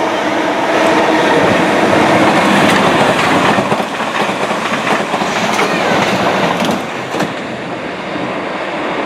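A passenger train passing at speed on the main line: a loud, dense rush of wheel and rail noise with sharp clicks over the rail joints, easing a little near the end.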